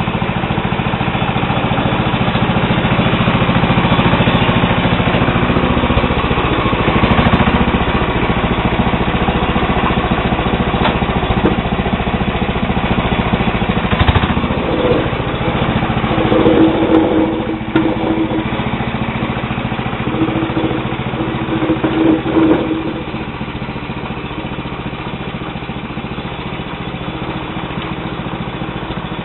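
Sears Suburban SS12 garden tractor's 12 hp Tecumseh HH120 single-cylinder engine running while it pushes snow with its front blade. The engine note shifts several times, with a knock about halfway through, a few short whines after that, and a lower level near the end.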